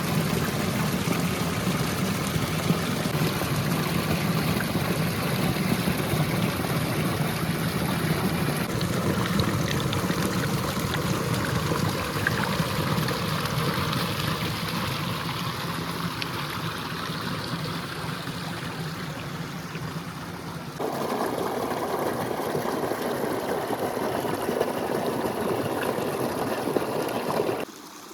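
River water flowing steadily, a continuous rushing noise. Its character shifts abruptly about eight and a half seconds in and again about twenty-one seconds in, and it cuts off just before the end.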